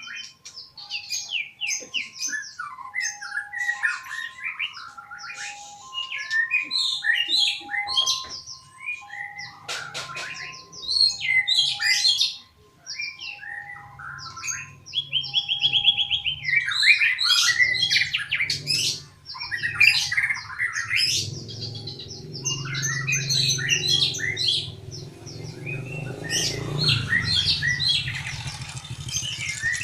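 A murai songbird singing a long, varied song of rapid whistles, trills and harsh squawky notes in quick succession. A short low pip repeats about once a second under the song for the first two-thirds, and a low rumble comes in after about twenty seconds.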